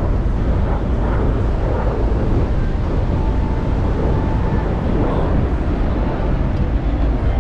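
Wind buffeting the microphone on a moving ship's open deck: a loud, steady low rumble.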